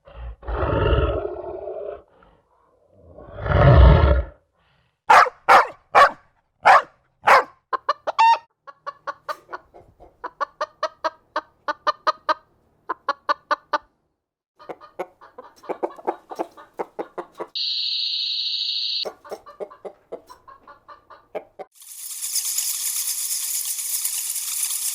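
A string of separate sound effects, mostly chickens clucking in quick bursts of short calls. Two deep, full sounds open it, a short steady high beep sits near the middle, and a steady hiss of noise begins near the end.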